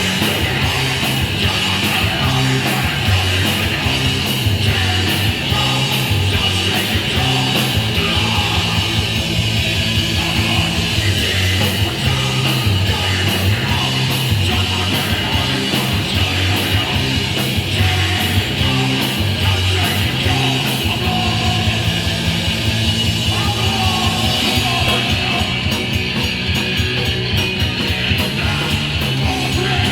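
Hardcore punk band playing live: electric guitar, bass and drums at a fast, steady beat.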